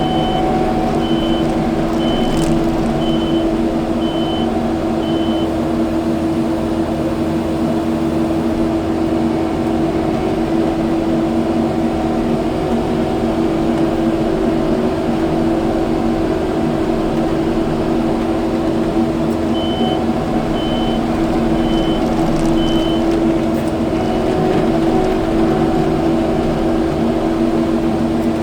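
Kubota skid steer's diesel engine running steadily under work, with its reversing alarm beeping about once a second in the first few seconds and again near the end as the machine backs up.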